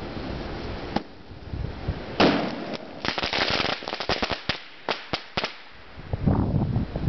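Firecrackers going off: a single sharp pop, a loud bang about two seconds in, then a rapid string of cracks followed by a few separate pops, and a duller burst near the end.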